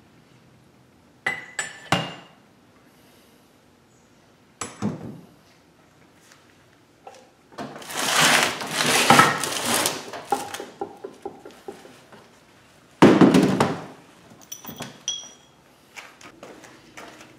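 Heavy steel parts of an NV4500 manual transmission being handled and set down: a few sharp metal knocks and clanks, a couple of seconds of rattling in the middle, then lighter clinks near the end.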